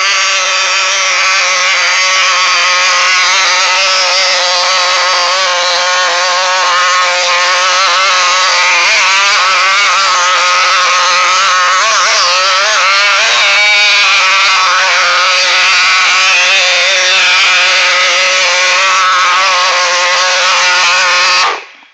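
Small two-stroke gasoline engine of an HPI RC car running loud through a homemade straight copper pipe exhaust, mostly steady with a few wavering rises in pitch around the middle, then cutting off suddenly near the end.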